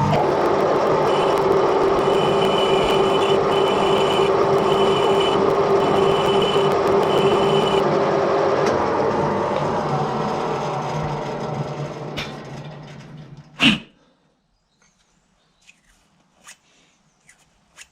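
Edgwick metal-turning lathe running steadily under power, with a high intermittent whine over the first several seconds. It then runs down and stops with a sharp clunk about fourteen seconds in, followed by a few faint clicks.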